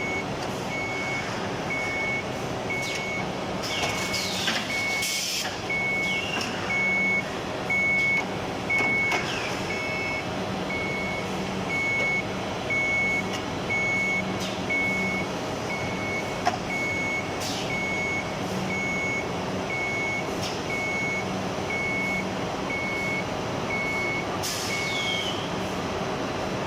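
Plastic bag-making machinery running steadily with a hum. Over it a single-tone electronic beeper sounds about one and a half times a second and stops near the end. A few sharp hisses of air come through.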